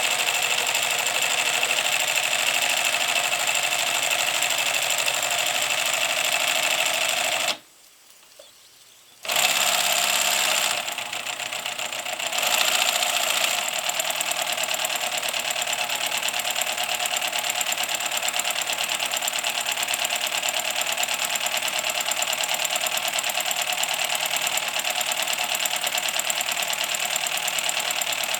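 MSS kit-built live-steam side tank locomotive running in reverse with a fast, steady rhythm of exhaust beats and motion clatter, its pistons not yet run in. The sound drops out for about two seconds around eight seconds in, then carries on.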